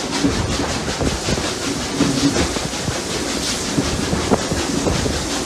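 Steam locomotives Rx207 and 621 working up a grade, heard from on board the train. Their exhaust beats come in a quick, steady rhythm, mixed with the clatter and clanks of the carriages running over the rails.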